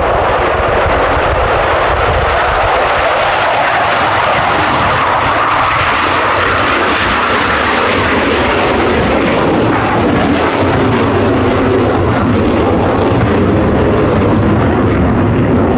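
Loud, steady jet engine noise from an F-15 fighter's twin turbofans, the roar holding level throughout with only slow shifts in its tone.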